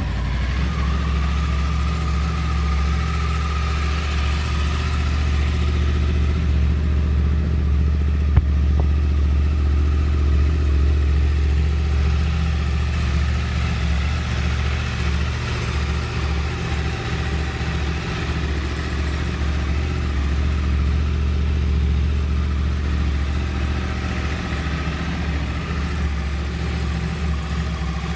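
2012 Yamaha R1's crossplane inline-four engine idling steadily, with a single sharp click about eight seconds in.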